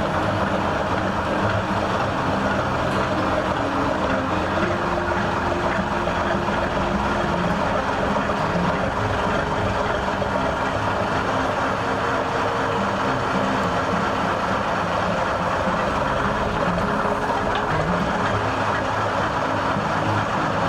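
Motor vehicle engine running steadily while driving, with constant road noise and an engine note that shifts slightly in pitch.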